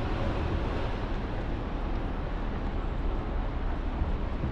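Steady city street noise with a heavy, continuous low rumble of passing traffic.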